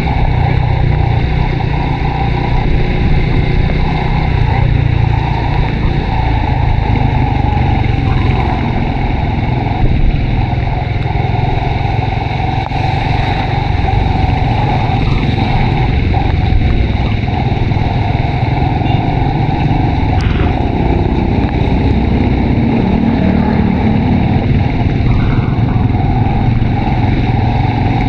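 Honda RSX 110 underbone motorcycle's single-cylinder four-stroke engine running steadily under way, with a heavy, steady rush of wind noise on the microphone.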